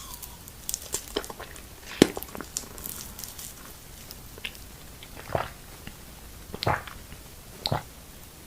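A person eating close to the microphone: quick bites and crisp crackles over the first few seconds, the sharpest about two seconds in, then three louder, fuller chewing sounds near the end.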